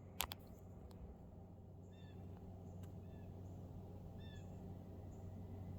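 Faint, short high-pitched animal calls, four of them a second or so apart, over a steady low hum.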